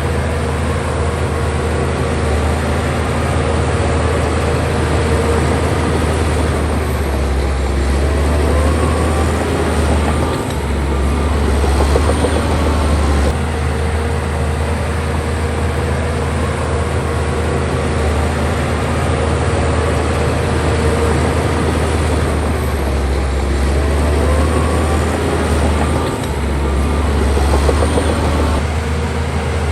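Heavy diesel engine of a crawler bulldozer running steadily under load, a deep constant drone with rattle and hiss above it, easing briefly and picking up again twice.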